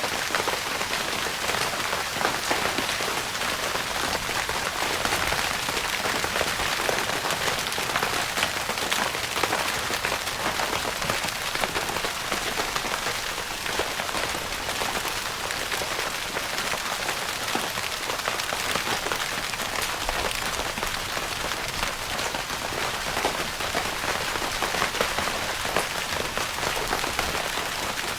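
Steady rain pattering on a tent's fabric roof, a dense, even patter of many small drops.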